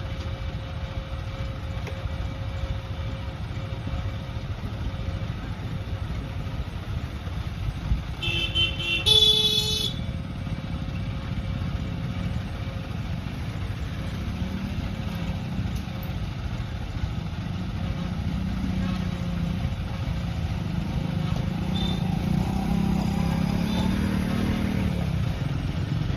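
A vehicle engine running steadily, with two short horn honks at different pitches about eight to ten seconds in; the engine grows louder toward the end.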